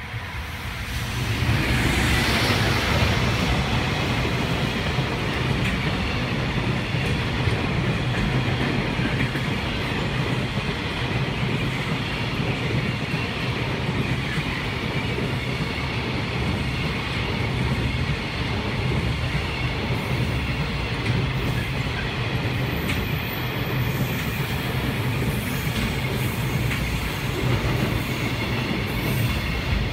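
Long container freight train passing close by. The clatter and rumble of its wheels on the rails builds sharply about a second in as the train arrives, then carries on steadily as the wagons roll past.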